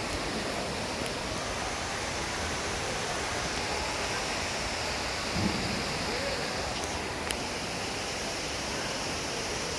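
Steady rush of running water, an even hiss with no rhythm, with a few faint clicks about five and a half and seven seconds in.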